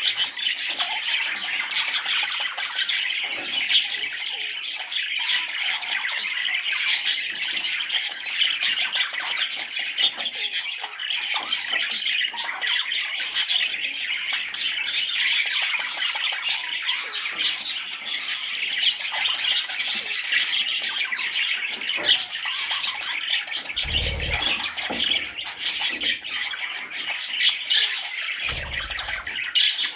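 Baby budgerigars chirping and squawking in a dense, unbroken chatter. Two short dull thumps are heard near the end.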